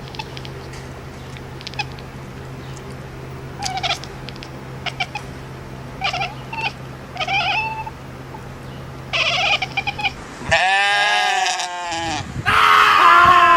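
A cat meowing in short calls over a steady low hum. After a cut about ten and a half seconds in come louder, longer, wavering cat yowls, the last of them the loudest.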